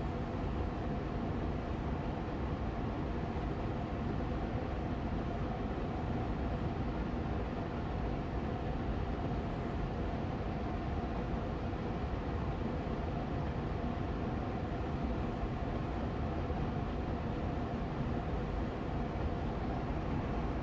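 Air purifier fan running steadily on medium speed: an even whooshing hum of moving air with a faint steady tone in the middle range, unchanging throughout.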